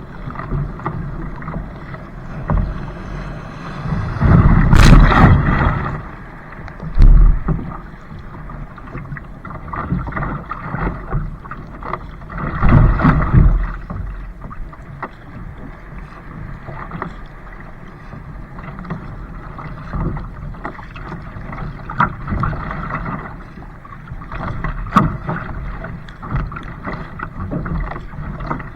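Water splashing and sloshing around a moving kayak, as an irregular noisy wash with louder surges about five seconds in and again about thirteen seconds in, and a low thud about seven seconds in.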